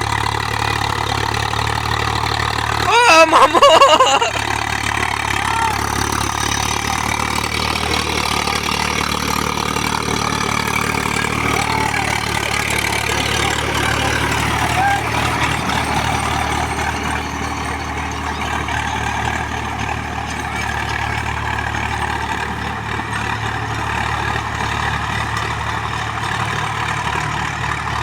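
Swaraj 744 XT tractor's diesel engine running steadily, with a brief loud warbling sound about three seconds in.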